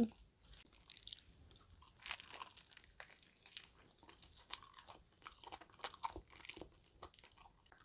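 Quiet, irregular crunching and chewing as a bite is taken from a crispy glazed fried chicken drumstick: a scatter of small crisp crackles, thicker in a few clusters.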